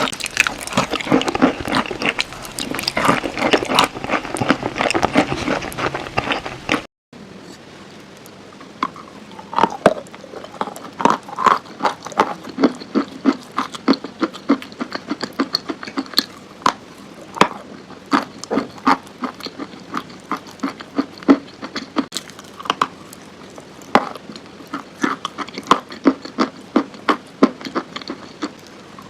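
Close-up crunching of chalk: dense, continuous crunching for about the first seven seconds, then after a sudden break a slower run of separate sharp crunches and crackles, roughly one or two a second.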